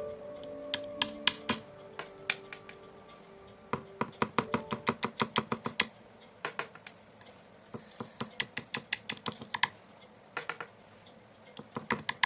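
Quick, irregular taps of a painting tool striking the canvas, in runs of several taps a second with short pauses between. Faint held music tones fade out over the first few seconds.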